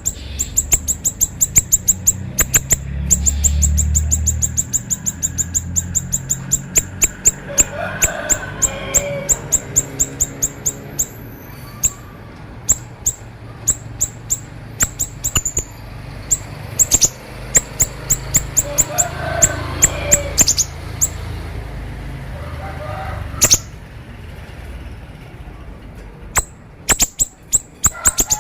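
Siri-siri songbird singing in the fast 'konslet' style: long strings of sharp, very high ticking notes, several a second, broken by a few short warbled phrases, over a steady low rumble.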